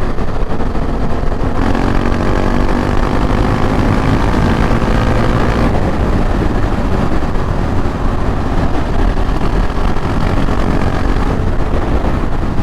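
Motorcycle ride heard on board: a KTM 690 Duke R's single-cylinder engine running under way. Its note is clear in the first half, then wind rush takes over.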